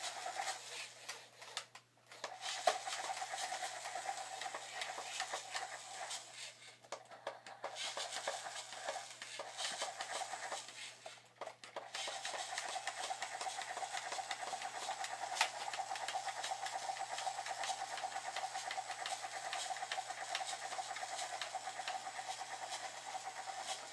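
Battery-powered toy helicopter's small electric motor running with a steady whirring hum and a fast rattling clatter, cutting out briefly three times before running on steadily.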